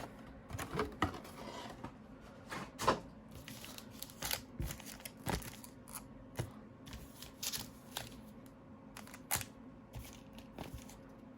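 Trading card packs and their box being handled by hand: scattered crinkling of wrappers and light clicks and taps at irregular intervals.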